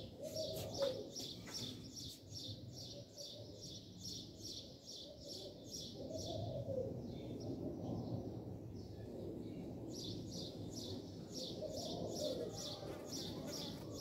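A small bird chirping rapidly and evenly, about five high chirps a second, breaking off briefly about two-thirds of the way through before starting again. Underneath, a lower call from another bird rises and falls three times.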